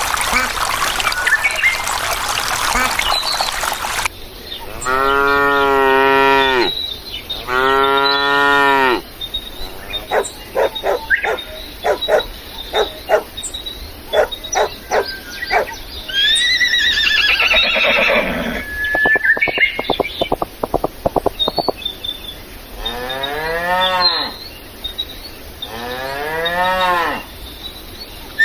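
Cattle mooing: two long, drawn-out moos one after the other, then two shorter moos near the end. A hissing noise fills the first few seconds, and rapid clicking and short high chirps come between the moos.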